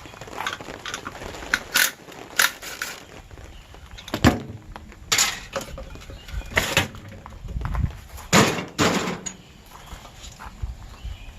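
Irregular knocks, clanks and short scraping bursts of scrap metal being handled and pulled apart.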